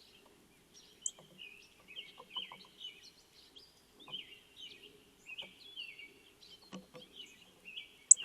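A songbird chirping in a steady run of short notes, about two a second, with a few faint taps in between.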